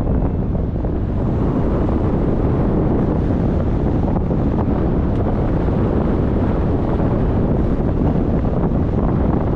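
Wind rushing over the microphone, a loud, steady roar: the airflow around a hang glider in flight in strong wind.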